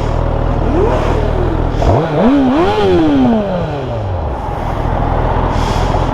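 Motorcycle engine running under way with wind hiss; about two seconds in the revs climb, dip briefly, climb again and then fall away over a couple of seconds.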